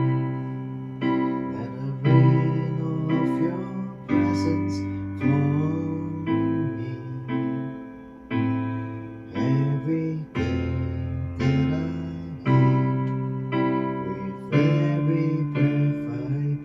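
Piano-voiced keyboard playing slow sustained chords, a new chord struck about once a second and left to ring.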